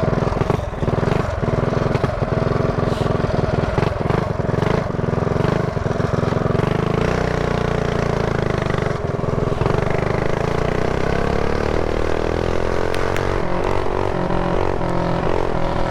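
Mini bike's small single-cylinder engine running hard under way. Its pitch sags around the middle, then climbs again as it revs back up, with wind buffeting the helmet-mounted microphone.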